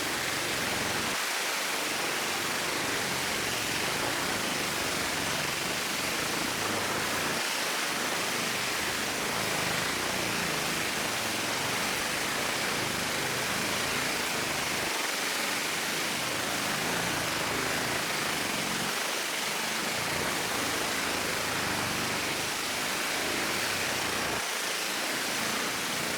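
Steady, even rushing noise with no rhythm or tones, like a fan or air flow running continuously.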